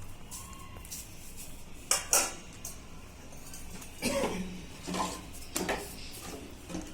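A few light metallic clinks and taps, two sharp ones about two seconds in and a busier cluster a couple of seconds later.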